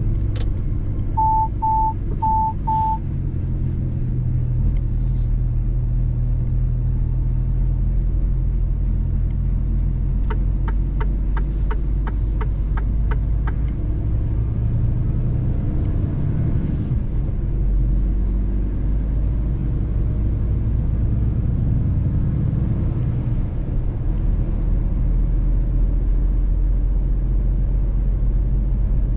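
Mercedes-Benz truck driving on the road: a steady low engine and road drone. Four short beeps sound about a second in, and a quick run of about ten clicks comes about ten seconds in.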